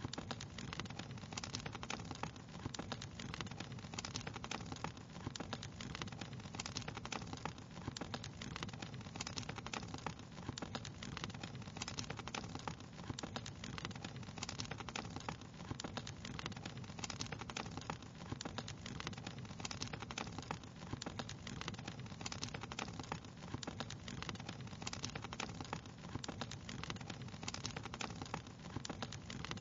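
Wood fire crackling: a dense, constant run of small pops and snaps over a steady low background noise.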